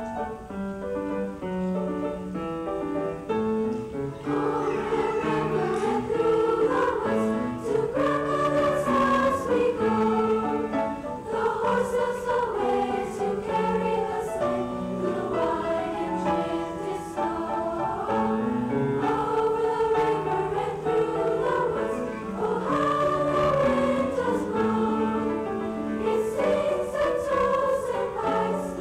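A junior high school choir singing.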